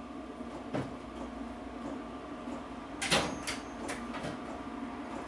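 Steel spanners being handled and set against a nut: a light click about a second in, then a louder clatter of metal-on-metal knocks about three seconds in, over a steady background hum.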